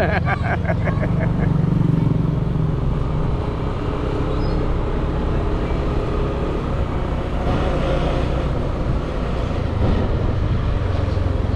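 Motorbike engine running steadily while being ridden along a road.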